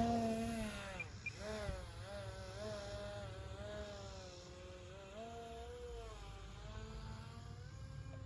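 E-flite UMX Turbo Timber Evolution's small brushless electric motor and propeller whining in flight, the pitch wavering up and down as the plane moves and the throttle changes; loudest at the start, then steadier and a little quieter.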